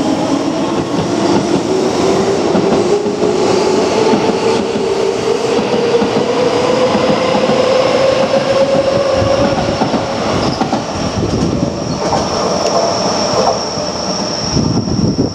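Keio Line electric train accelerating: the traction motor's whine rises steadily in pitch over the first nine seconds, over the rumble of wheels on rails. Near the end, a high, thin wheel squeal comes in.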